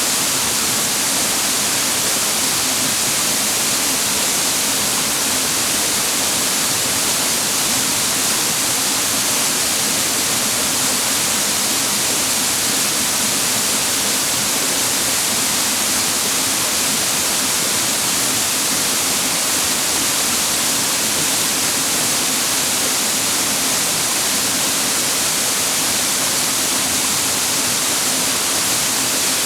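Waterfall pouring steadily onto rocks: a constant, even rush of falling water, bright and hissy, with no change throughout.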